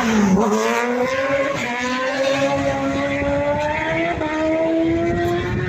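Superbike racing motorcycle engine passing close: its pitch drops as it goes by, then rises steadily as the bike accelerates away up the road.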